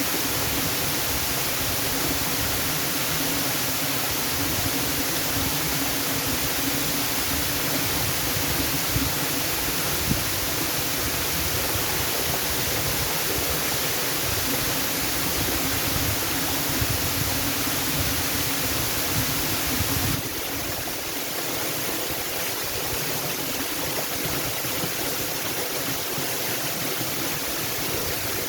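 Waterfall's steady rush of falling water. About 20 s in it changes abruptly to a slightly quieter, thinner rush with less low rumble.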